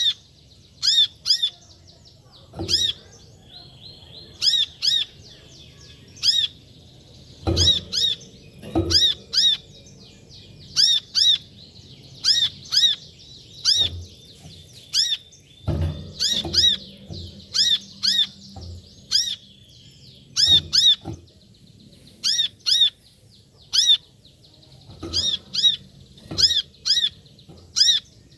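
Brown-throated sunbird ('kolibri kelapa') calling: short, sharp, high chirps that dip in pitch, repeated in quick clusters of two or three again and again. A few dull low thumps sound beneath the calls, the loudest about a third and halfway through.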